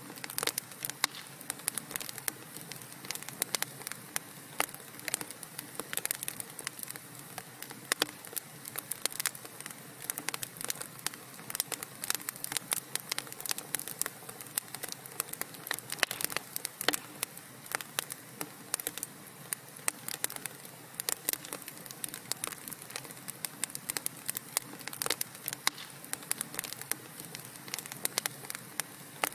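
Wood fire burning in a fireplace: a steady soft hiss of flames with dense, irregular crackles and sharp pops from the burning logs.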